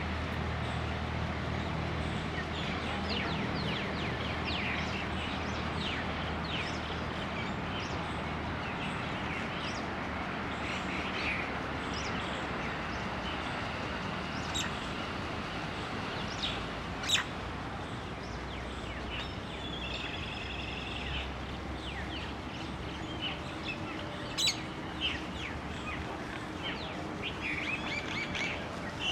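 Several birds chirping and calling, with a few sharp louder calls and a short trill standing out, over a steady low background rumble.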